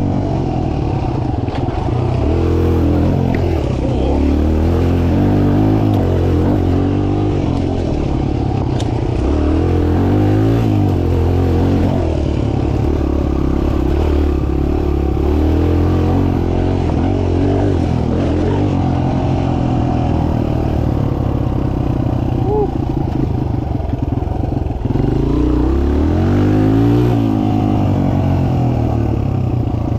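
Mini dirt bike engine revving up and easing off over and over, its pitch rising and falling as the bike rides a track.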